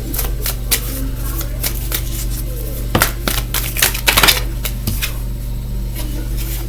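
Cards being handled on a table: a run of small clicks and taps, with two denser flurries about three and four seconds in, over a steady low hum.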